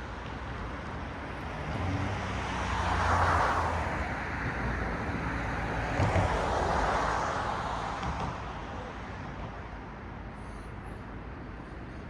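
Two cars pass one after the other, about three seconds apart; their tyre noise swells and fades over a steady hum of road traffic.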